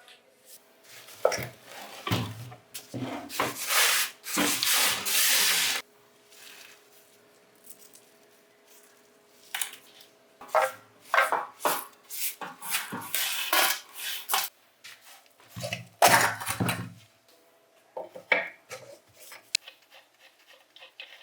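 Clinks, knocks and scraping of metal parts and hand tools being worked on a rusted bench grinder as it is taken apart, in irregular bursts, with a longer rushing scrape about four to six seconds in.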